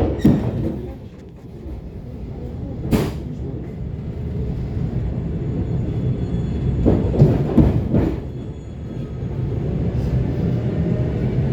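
ET2 electric multiple unit pulling away and gathering speed, its running rumble growing louder over the first seven seconds. Sharp knocks from the wheels come at the start, about three seconds in, and in a cluster around seven to eight seconds.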